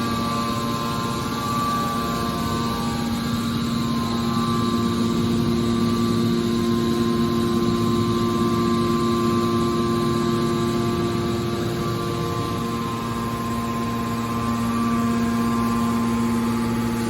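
Hydraulic metal baler's power unit running, its electric motor and hydraulic pump giving a steady hum of constant pitch, with a slight change in the tone about twelve seconds in.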